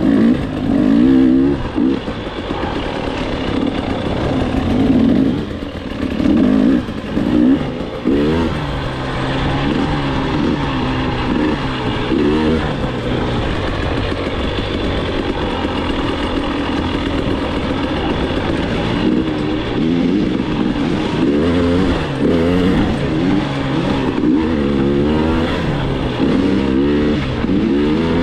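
KTM enduro dirt bike engine revving up and down again and again as the rider opens and closes the throttle, heard close up from the bike.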